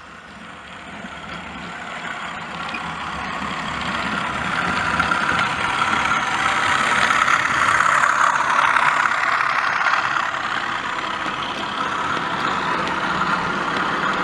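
OO gauge model locomotive running on the layout, its DCC sound decoder playing engine sound through the loco's small speaker. It grows louder over several seconds, is loudest about eight seconds in, then eases off a little, like a train coming past.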